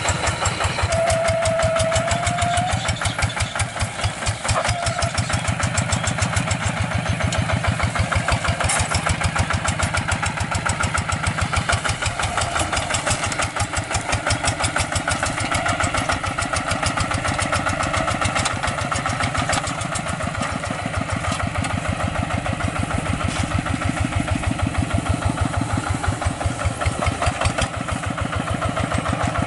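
Single-cylinder diesel engine of a two-wheel hand tractor running steadily, its firing strokes coming as a fast, even chug.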